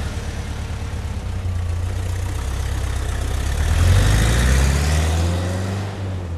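Car engine running after a start, revving up with a rising pitch from about halfway through, then dropping away at the end.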